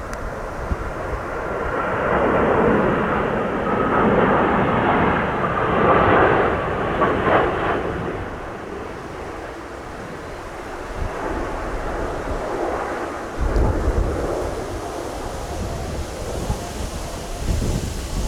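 Jet airliner passing low on approach to land, its engine noise building, peaking for a few seconds and fading away. Gusty wind rumbles on the microphone, strongest near the end.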